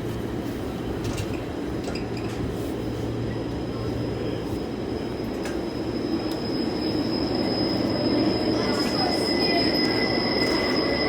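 Electric train noise: a steady low rumble, joined about halfway by a high, steady squeal, with the sound growing louder toward the end.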